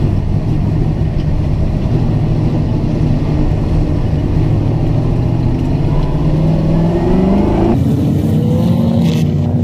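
Holden Torana A9X touring car's V8 race engine, heard from inside the car, running hard and rising in pitch as it accelerates. Just before the end the sound changes abruptly, then it climbs again.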